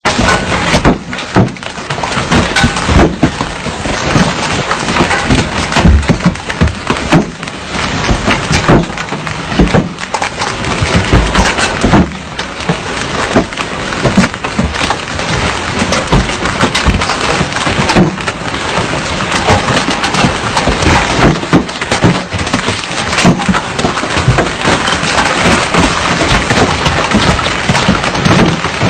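Heavy rain pouring, a dense steady hiss with many sharp close-by spatters and hits on a surface.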